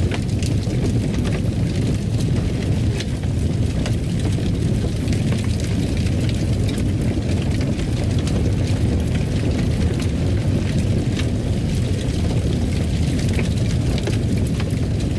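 Fireplace fire crackling, with a steady low rumble under frequent small irregular pops.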